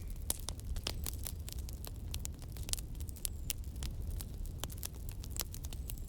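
Wood fire crackling: many irregular sharp pops and snaps over a low, steady rumble.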